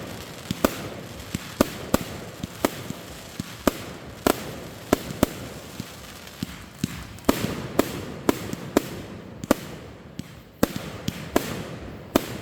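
Fireworks going off: a steady run of sharp bangs, about two a second at uneven spacing, over a continuous hiss and rumble between them.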